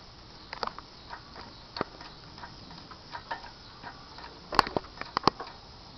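Scattered sharp metallic clicks and knocks at uneven intervals, the loudest a few about four and a half to five and a half seconds in, as the jack lifting the pulled 3.4 L V6 is pumped up.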